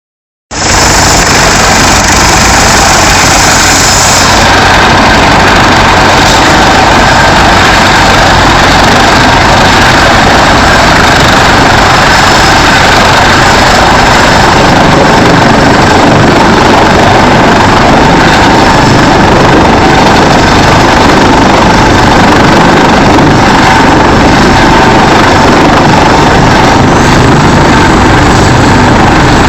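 Helicopter turbine engine and rotor running close by: a loud, steady, unbroken noise with a faint high whine above it.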